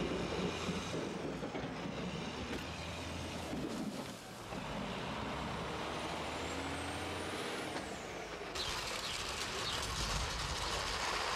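Heavy vehicle engine running in street traffic with a steady low hum. A faint high whine rises and falls past the middle, and a broad hiss takes over about three-quarters of the way through.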